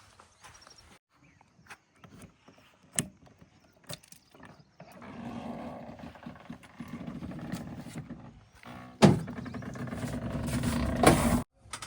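A heavy diesel engine running steadily, coming in about five seconds in after a few scattered clicks, with two sharp loud knocks near the end.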